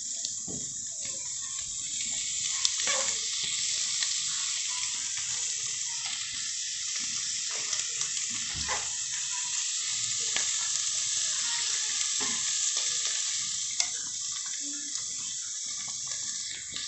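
Food sizzling steadily in a frying pan on the stove, with a few sharp clicks and knocks as it is stirred.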